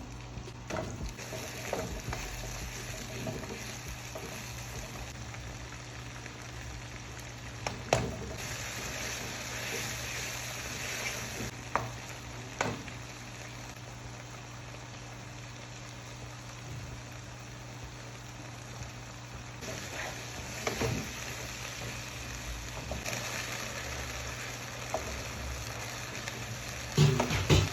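Food sizzling as it fries in a pot, with a few sharp clinks of a cooking utensil against the pot.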